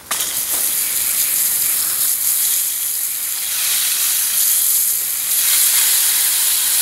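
Water spray switched on suddenly and running as a steady hiss against an old post drill press, rinsing off engine degreaser and the grime it has loosened.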